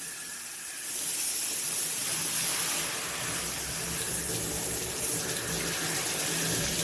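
Water spraying steadily from a handheld shower head, a full even hiss that comes up about a second in.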